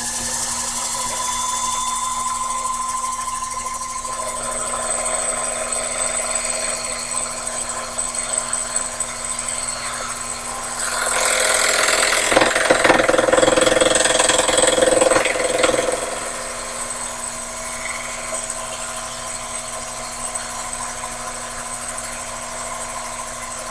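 Sherline mini lathe running with a steady motor whine, while a high-speed steel tool turns aluminium; about halfway through the cut gets louder and rougher for some five seconds, then settles back.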